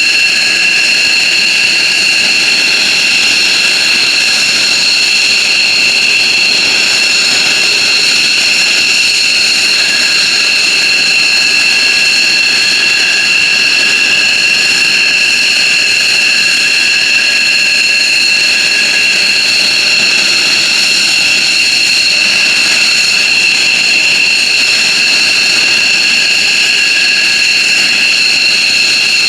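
F-15J Eagle jet engines running at a steady setting: a loud, even high-pitched whine of several constant tones over rushing noise, with no change in pitch.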